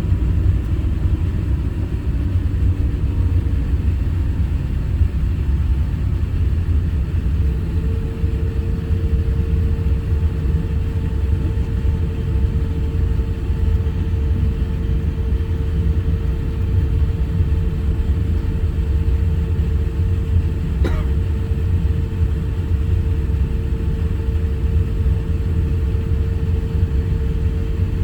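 Cabin noise aboard an Airbus A350-1000 airliner: a steady low rumble with a steady hum that rises slightly, then settles, in the first few seconds. A single sharp click about three quarters of the way through.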